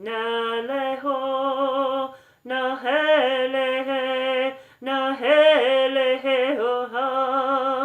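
A woman singing wordless light-language tones, held notes with a wavering vibrato, in three long phrases with short breaths between them.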